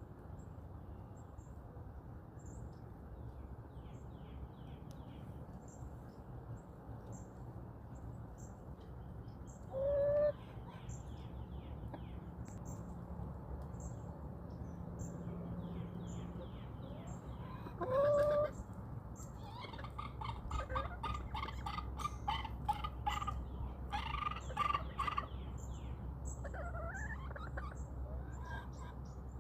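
Backyard chickens calling: two loud single calls about ten and eighteen seconds in, then a stretch of rapid, overlapping clucking and chatter. Underneath there is a steady low background hum and a faint high chirp repeating about once a second.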